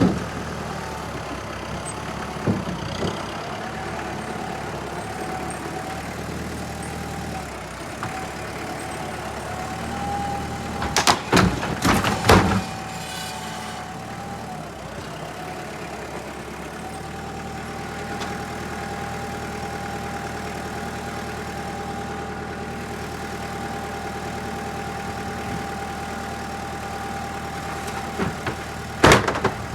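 Engine idling steadily with a steady high whine over it, broken by loud knocks and clatters of firewood, a cluster about eleven seconds in and another near the end.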